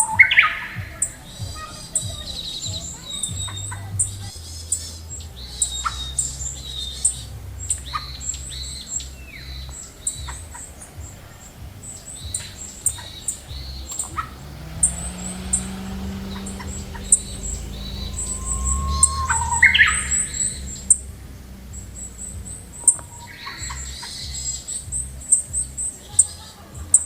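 Birds chirping steadily, with many short high twittering calls throughout and a few louder calls near the start and about twenty seconds in.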